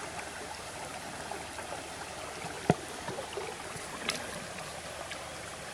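Creek water running steadily over a road crossing, an even rushing sound. A single sharp click stands out about halfway through, with a fainter tick a little later.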